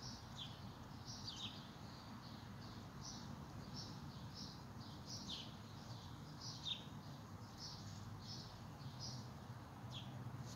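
Birds chirping in the background: short high chirps and quick falling whistles, about two a second, over a steady low rumble.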